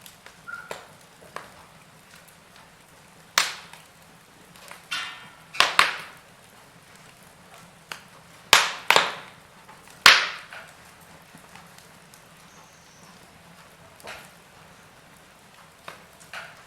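Logs burning in a fireplace: irregular crackling, with sharp pops over a low steady hiss, several loud ones in the middle part.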